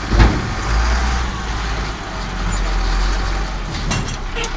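Engine of a heavy farm or work vehicle running with a steady low rumble, with a sharp knock about a quarter second in and a few clicks near the end.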